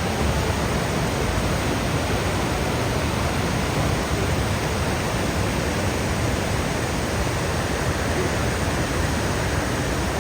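Steady, unbroken rush of the Niagara River's fast water: an even, constant hiss at a level that does not change.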